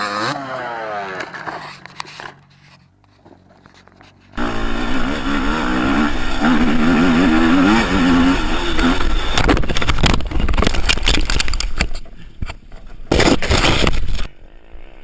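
Dirt bike engines revving across several short clips. The loudest stretch starts suddenly about four seconds in, with an engine note wavering up and down, and is followed by a run of sharp knocks and scraping.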